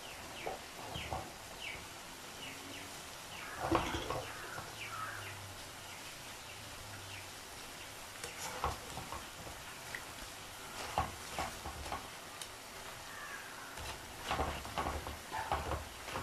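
Frozen french fries frying in oil in a pan, with a steady sizzle. Bursts of crisp scraping clicks come as they are stirred and scooped, about four seconds in, twice more in the middle and several times near the end. The crisp crunch from the pan is what the cook takes as the sign that the fries are half cooked.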